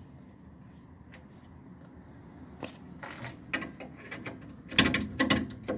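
Hand tools working on metal car parts: a few scattered clicks, then a quick run of metallic clinks and clanks near the end.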